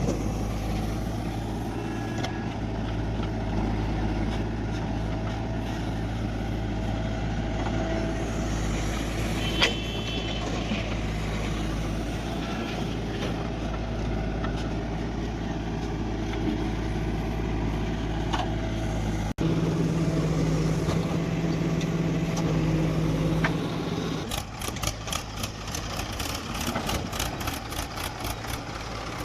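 Heavy diesel engines running steadily. About two-thirds of the way in the sound breaks off suddenly and comes back with a louder, higher engine note, then settles into an uneven, pulsing idle near the end.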